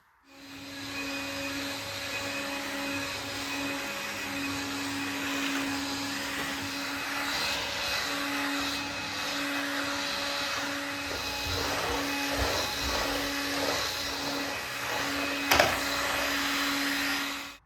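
An electric appliance motor switched on and running steadily with a constant hum, then switched off abruptly near the end; irregular knocks in the second half and one sharp click shortly before it stops.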